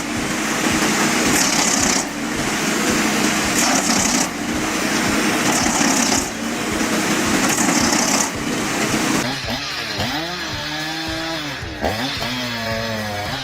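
Engine-driven saw cutting wood, the engine running steadily under repeated cutting bursts about every two seconds. In the last few seconds the engine pitch swings up and down.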